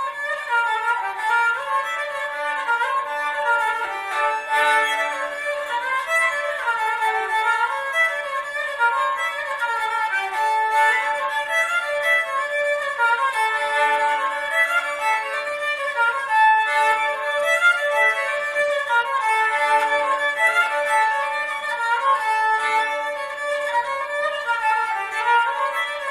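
Four-string Cretan lyra tuned G-D-A-E, bowed in a flowing melody. A low note returns again and again beneath the tune.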